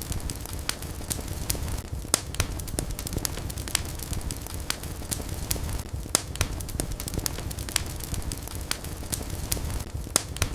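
Wood fire burning in a fireplace, crackling with irregular sharp pops several times a second over a low steady rumble of the flames.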